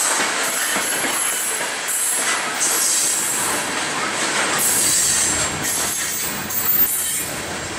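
Coal hopper cars of a freight train rolling past: a steady rumble and clatter of steel wheels on the rails, with a high wheel squeal that comes and goes.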